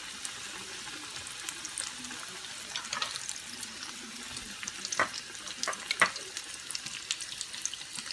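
Hot oil sizzling and crackling steadily as breaded, panko-coated sausage rolls and mashed-potato balls deep-fry in a pan, with a few sharper pops about five and six seconds in.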